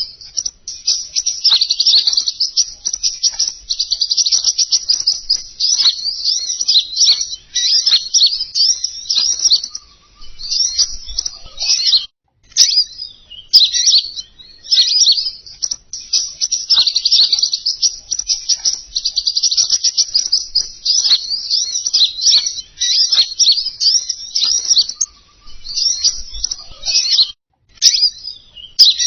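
Recorded lure call of a small songbird, sold as King Konin bird sound: a rapid, high twittering song in long unbroken phrases, with a few short pauses between them.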